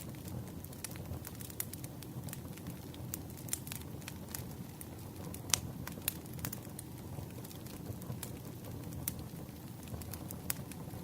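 Campfire ASMR: a wood fire burning with a steady low rumble and irregular sharp crackles and pops, one louder pop about halfway through.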